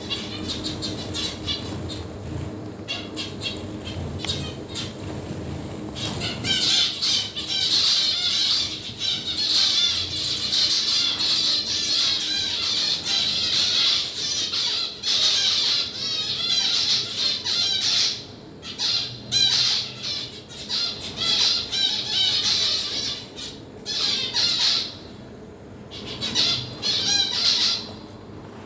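Many birds squawking and chattering together in a dense, high-pitched din that swells about six seconds in and drops out briefly a few times.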